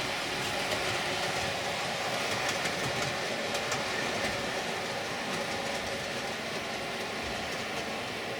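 Model Virgin HST train running steadily up a track helix at constant quarter speed: an even whirr of the motor and wheels on the rails, with some faint clicking.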